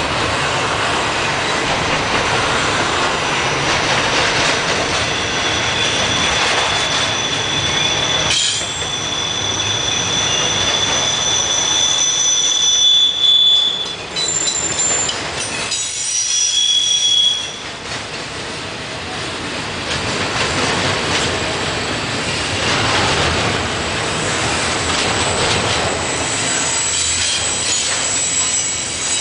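Slow freight train rolling past, its steel wheels squealing on the rails in high, steady tones that come and go, strongest from about five to seventeen seconds in.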